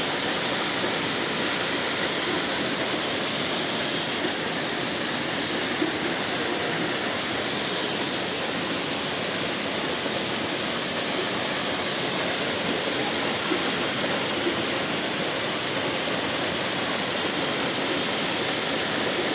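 The Gega waterfall's falling water rushing steadily, an even, unbroken noise.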